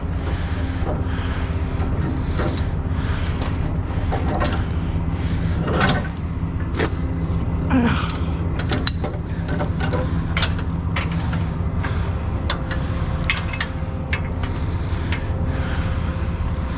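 Heavy truck diesel engine idling steadily, with scattered sharp clicks and metal clanks over it.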